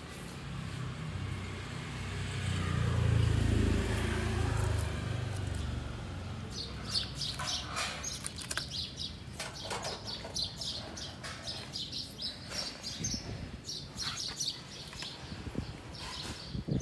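Small birds chirping in many short, high notes from about six seconds in. Before that, a low rumble swells and fades over the first five seconds or so.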